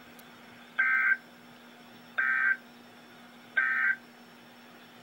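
Three short bursts of buzzing digital data tones from a weather radio, evenly spaced about a second and a half apart, the pattern of the SAME end-of-message code that closes a NOAA Weather Radio alert. A faint steady hum runs underneath.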